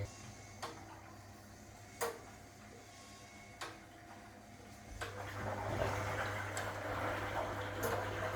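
1961 AEG Lavamat Noris washing machine: a running hum cuts off, a few sharp clicks follow, and about five seconds in water starts rushing through the machine over a low mains hum.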